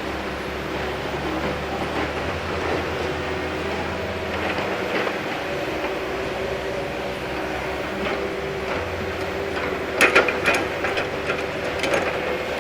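Heavy diesel logging equipment running steadily, with loud metallic clanks and rattles about ten seconds in.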